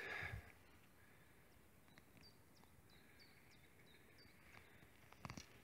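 Near silence with a faint string of short, high bird chirps in the middle. There is a soft scuff of digging in soil at the start and a brief knock near the end.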